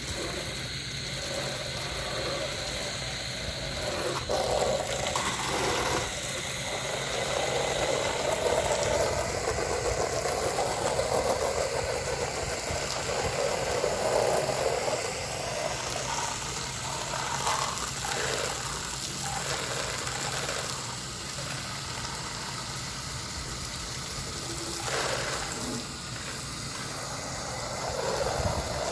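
Pressure washer running steadily, its water spray hitting house siding and windows, the hiss and splatter rising and falling as the spray moves across the wall.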